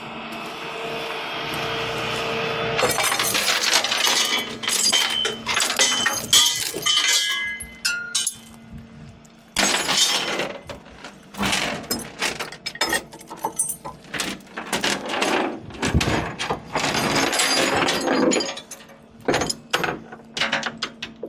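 Steel tie-down chains clanking and rattling in irregular bursts as they are pulled over the tractor's loader bucket, after a steady hum in the first few seconds.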